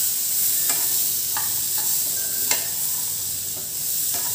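Boiled black chickpeas and spices sizzling in oil in a kadhai while a spatula stirs them, with a few short scrapes and taps of the spatula against the pan.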